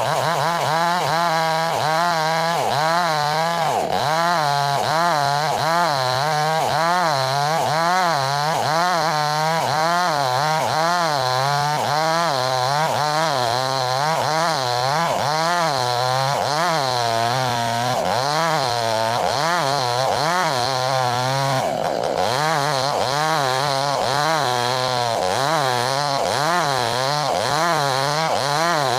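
Chainsaw running at high speed while ripping a log lengthwise along the grain, its engine note rising and falling about twice a second as the chain loads and frees in the cut. The note briefly steadies about three-quarters of the way through, then the rising and falling resumes.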